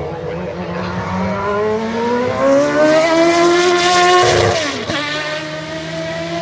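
A racing vehicle's engine accelerating on track, its pitch climbing for a few seconds, then dropping sharply about four and a half seconds in, as at a gear change, before running on steadily.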